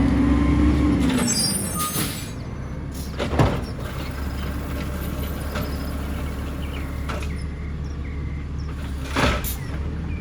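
Side-loader garbage truck at work: its engine runs high for the first second, then drops back, with a sharp knock a few seconds in and a short burst of noise near the end.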